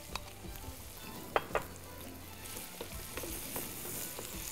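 Chopped onions, garlic and hot chili sizzling as they fry in a pot, the sizzle growing louder a little past halfway. A wooden spoon knocks sharply twice about a second and a half in, with a few lighter knocks around it.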